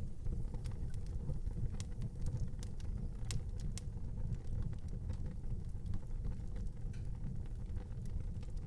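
Wood fire in an outdoor fireplace crackling, with scattered sharp pops, several of them close together a few seconds in, over a low steady rumble.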